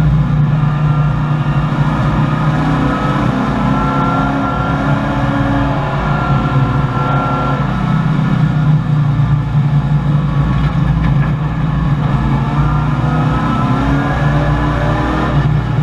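1984 Chevrolet Camaro race car's V8 engine running hard under load, heard from inside the cabin, its pitch rising and falling with the throttle and a rise near the end.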